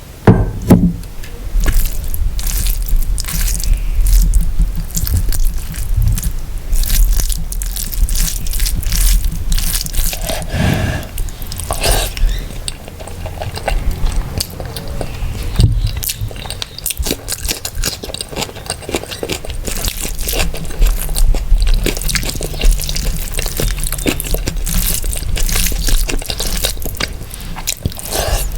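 Close-miked eating of mutton biryani and mutton curry: wet chewing and biting, with many sharp clicks and crunches.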